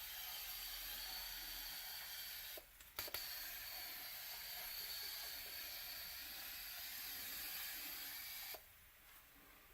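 Pressurised spray hissing steadily in two long bursts, cut off briefly about two and a half seconds in and stopping shortly before the end.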